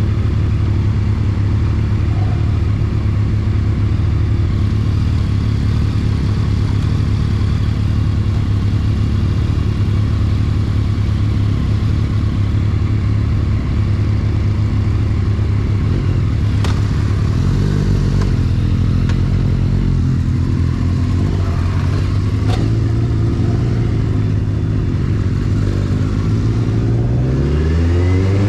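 Benelli TNT 600i motorcycle's inline-four engine running steadily at low revs, then changing engine speed from about halfway through and revving up near the end. Two sharp clicks sound in the second half.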